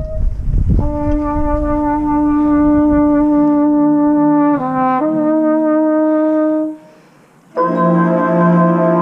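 Marching band brass section playing long held chords, with a chord change about halfway through. The sound drops out briefly about seven seconds in, then the brass comes back in loud on a new chord.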